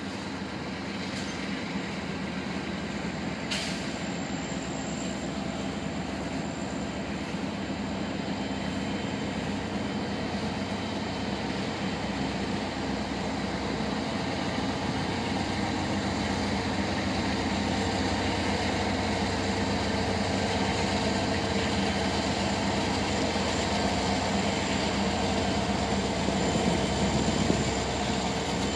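Freight train rolling past: a steady rumble of freight car wheels on the rails, growing gradually louder, mixed with the drone of passing diesel locomotives. There is a single sharp click about three and a half seconds in.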